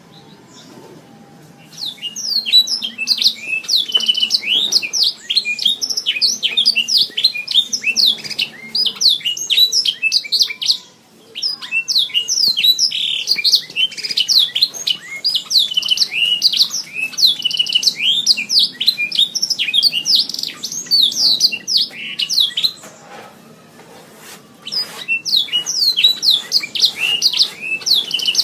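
Domestic canary singing long runs of rapid trills and warbled notes. The song starts about two seconds in, breaks briefly about eleven seconds in, and eases off for a couple of seconds near twenty-three seconds before starting again.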